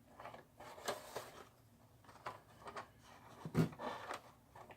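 Faint rustling and tapping of a cardboard model-kit box being handled and turned in the hands, a few short scattered sounds, the loudest about three and a half seconds in.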